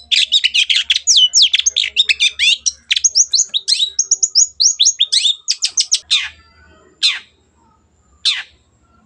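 Long-tailed shrike (cendet) singing a fast, varied run of chirps and sweeping whistled notes for about six seconds, then giving three separate harsh single calls about a second apart.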